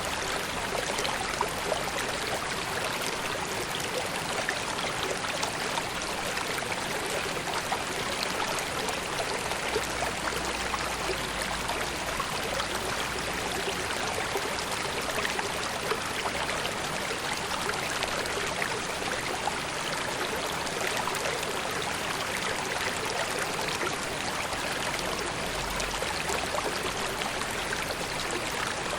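River water flowing steadily: an even rushing and trickling with small splashes throughout.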